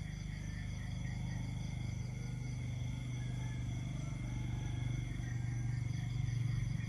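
Night chorus of insects: several steady high-pitched trills, some pulsing rapidly, run on together. Underneath is a louder low, rapidly pulsing drone that swells near the end.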